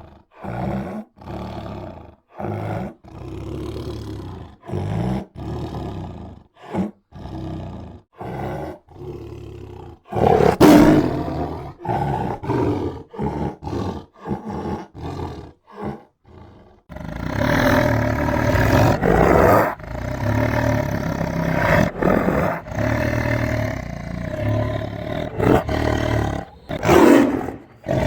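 Tiger roaring: a run of short, separate roars, then from about ten seconds in longer, louder roars. After a brief pause the roaring runs almost unbroken, with the loudest roar near the end.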